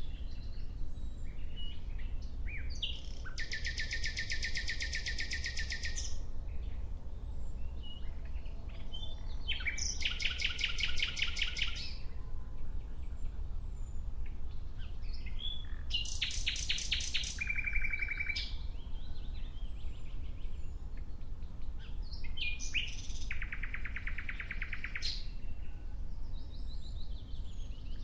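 Nightingale singing: phrases of fast repeated high notes, each about two seconds long, with pauses of a few seconds between them, over a low steady rumble.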